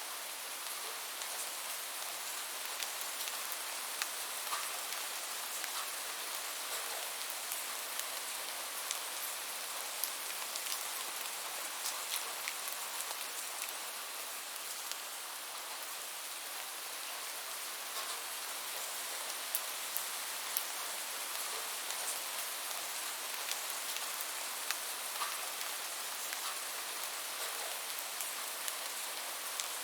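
Steady rain falling: an even hiss with many scattered taps of single drops.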